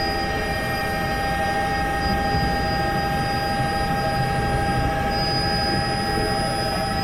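Helicopter running steadily: a dense low rumble with several steady high-pitched turbine whines over it.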